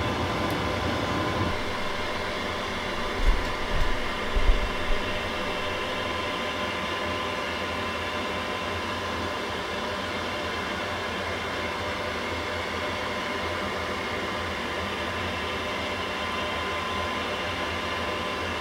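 Steady microwave-oven hum played as a sound effect from a phone, with a few low bumps about three to five seconds in.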